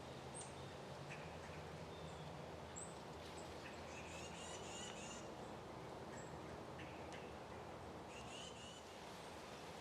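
Faint bird calls over a steady background hiss: a few short, very high chirps, and two longer, lower calls, one about four to five seconds in and one near the end.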